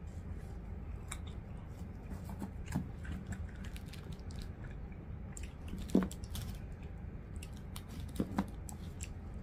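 Close-up chewing of seasoned potato crispers, with small clicks and crinkles from fingers picking through the crispers on a plastic wrapper. A louder knock comes about six seconds in and two more near the end, over a steady low hum.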